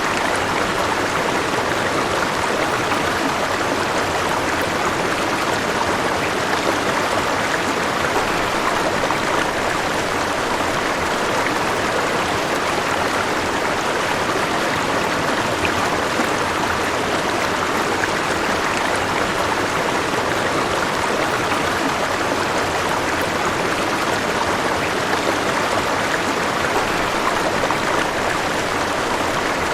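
River water flowing over rocks: a steady, even rushing and burbling.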